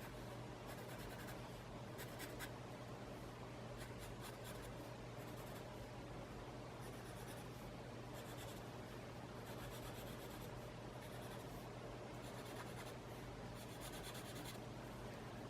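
Faint scratching of drawing strokes on a small tile of sketch paper, coming in short repeated runs, over a steady low hum.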